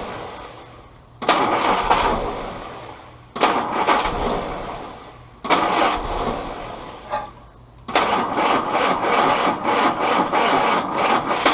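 Willys L134 Go Devil four-cylinder engine on repeated start attempts, catching with a sudden burst four times and fading out after each, the last burst lasting longest. It is not firing consistently, which is put down to ignition timing that needs adjusting.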